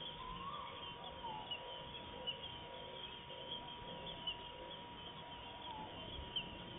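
Wild birds calling, many short scattered chirps, over a steady thin tone and a faint even hiss.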